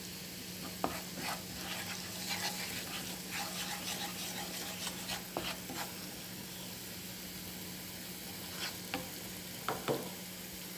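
Minced garlic and ground coriander sizzling in hot oil in a non-stick frying pan. A wooden spoon stirs and scrapes the pan in short, scattered strokes.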